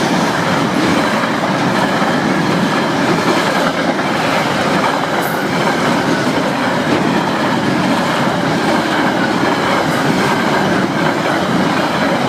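Wagons of a long freight train rolling past at close range: a loud, steady rush of wheels on the rails.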